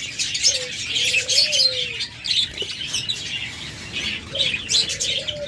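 A flock of caged budgerigars chattering and chirping continuously, with low, soft cooing calls, likely from doves, twice: about half a second in and again near the end.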